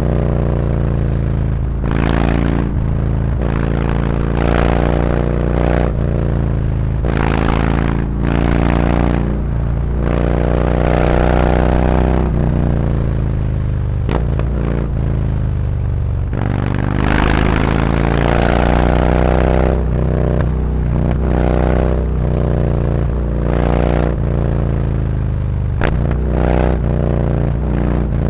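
Harley-Davidson Road Glide Special's V-twin exhaust through SuperTrapp 4-inch slip-on mufflers with internal discs, the bike accelerating through the gears with the pitch climbing and dropping back at each shift. About halfway through the engine note falls as the bike slows, then climbs again as it pulls away.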